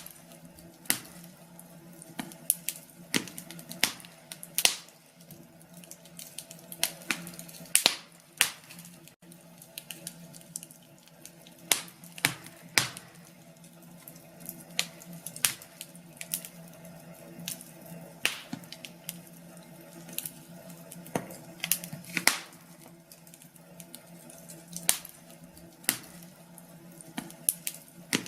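Fire burning in a fireplace, crackling with irregular sharp pops, sometimes several close together and sometimes a second or two apart, over a faint steady low hum.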